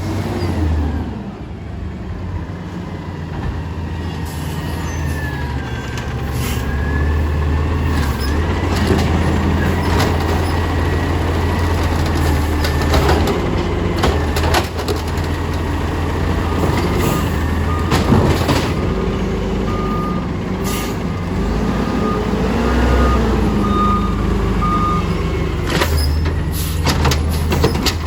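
A garbage truck's diesel engine running steadily with mechanical whining that rises and falls, and a run of short reversing beeps about two-thirds of the way through. Several sharp clanks come near the end.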